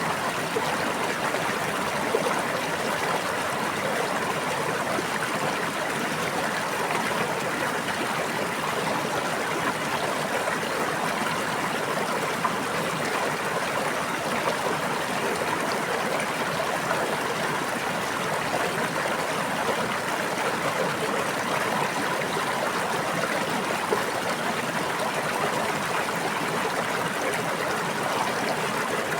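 Stream water running steadily, an even rushing and splashing with a few slightly louder splashes.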